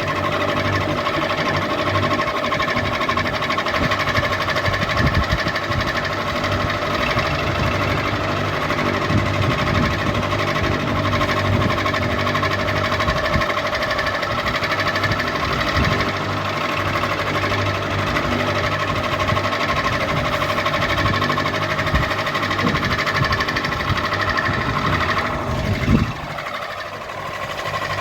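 Electric ceiling fan running: a steady motor hum with several held tones over an uneven low rattling clatter. About two seconds before the end there is a brief falling sweep and a knock, after which the low rumble drops away for a moment.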